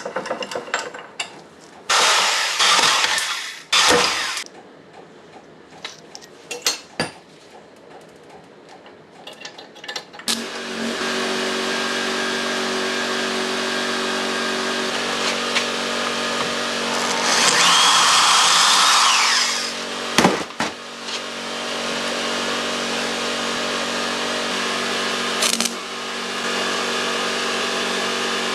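Power tools working metal while a tool is made in the shop: a few short loud bursts in the first seconds, then from about ten seconds in a steady hum and hiss of a running machine, louder for a couple of seconds around the middle.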